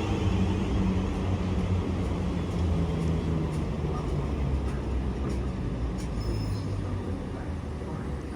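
A train running through the station, a steady low rumble that slowly fades.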